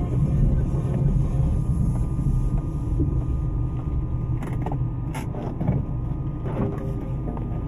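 Low, steady rumble of a car's engine heard from inside the cabin, with a few light knocks a little past halfway.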